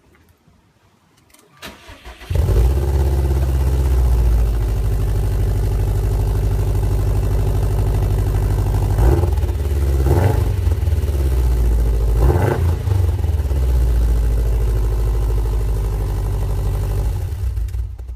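2015 Subaru STI's turbocharged flat-four engine with an Invidia Q300 cat-back exhaust, started: a brief crank, then it catches a little over two seconds in and idles steadily with a deep exhaust note. Three short throttle blips come about a second apart in the middle, and the engine shuts off just before the end.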